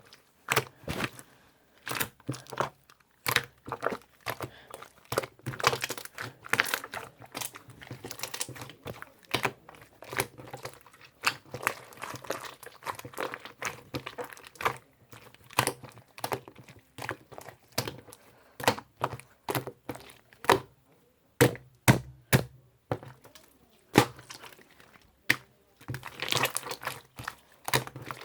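Irregular sharp clicks and knocks, one or two a second, with crinkling between them: objects being handled at close range.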